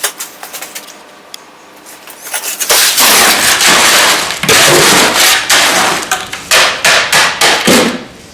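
Shovel mixing wet concrete in a wheelbarrow: a few light knocks, then from about three seconds in long loud scrapes and gritty churning, ending in several short scraping strokes.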